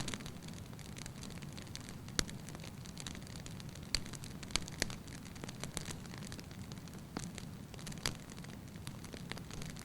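Wood fire burning in a fireplace: a steady low rush of the flames with sharp, irregular pops and crackles from the logs, a handful of them standing out.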